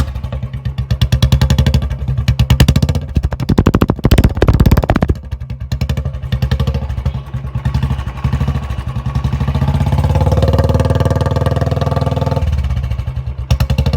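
Royal Enfield Classic's single-cylinder engine running through a short-bottle Indori-style aftermarket silencer, with a dug-dug beat. It is revved up three times in the first five seconds, then held steady and brought up to a raised, even speed, dropping back briefly near the end.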